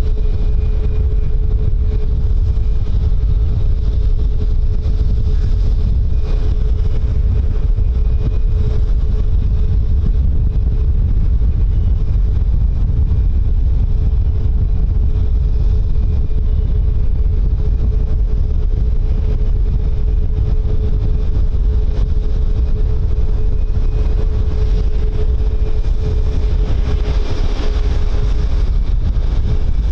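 Aircraft engines running with one steady hum that sags slightly in pitch near the end, under a heavy low rumble of wind buffeting the microphone.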